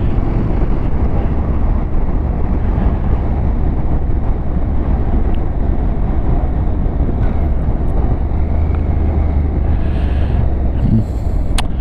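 Honda NC750X parallel-twin motorcycle engine running steadily under way, with wind rushing over the helmet camera's microphone.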